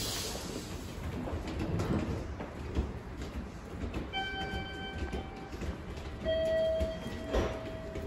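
Train noise rumbling at the station platform. About four seconds in, a sustained higher tone sounds for about a second and a half. It is followed by a lower, louder tone that fades out near the end, and there is a single sharp knock shortly before the end.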